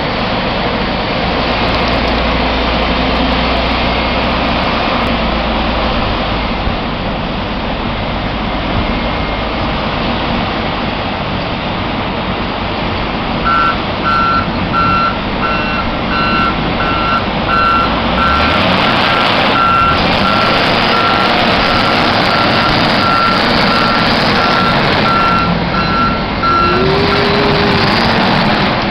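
Snow-clearing vehicle's engine running steadily, its reversing alarm beeping at an even pace from about halfway through until shortly before the end.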